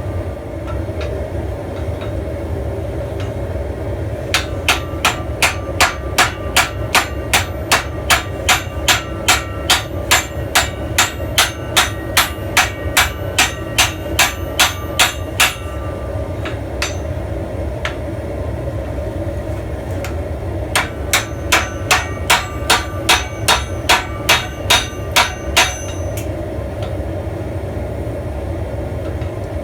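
Blacksmith's hand hammer striking steel on an anvil in two runs of even blows, about two a second, with a pause of several seconds between them. A steady low roar runs underneath.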